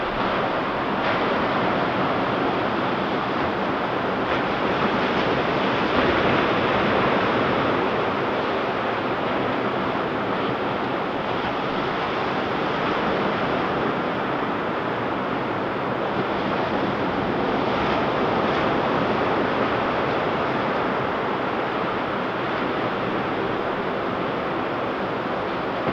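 Ocean surf breaking on a beach: a steady, dense wash of waves with gentle swells in loudness, and some wind on the microphone.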